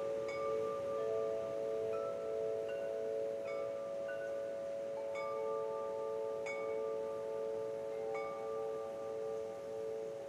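Wind chimes ringing softly: several long, overlapping tones, with a new strike about every second or two.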